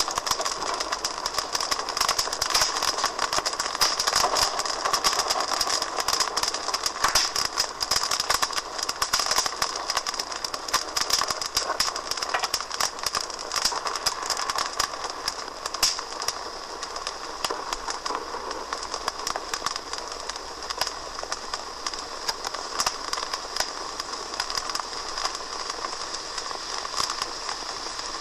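Wood fire crackling in a fireplace: a dense run of rapid pops and snaps that thins out somewhat in the second half.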